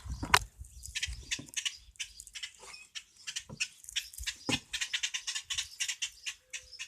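A small bird chirping in rapid, high peeps throughout, with some rustling and a few low knocks near the start.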